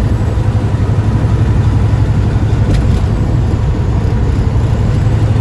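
Steady low drone of a truck's engine running, heard from inside the cab.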